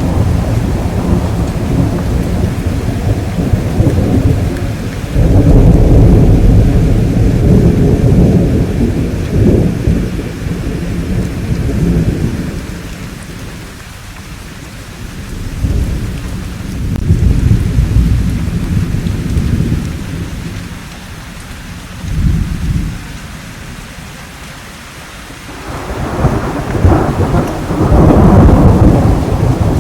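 Thunderstorm: rolling thunder over steady rain. Long low rumbles swell and fade in waves, easing off about halfway through with a short swell in the lull, then build again near the end while the rain hiss carries on underneath.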